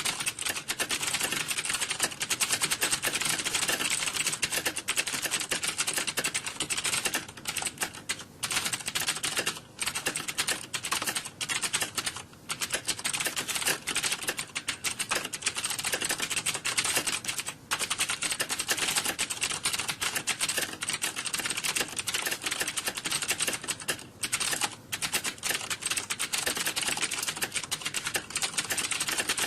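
Rapid, continuous clatter of computer keyboard typing, many keystrokes a second, broken by a few short pauses.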